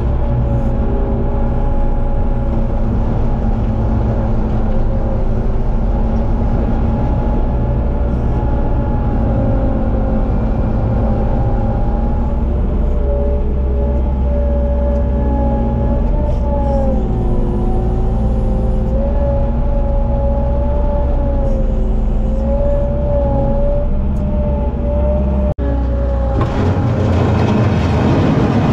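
Skid loader's engine running steadily while pushing snow, with a strong low rumble and a whining tone that wavers up and down with the load. Near the end it changes to a harsher, hissier sound with less rumble.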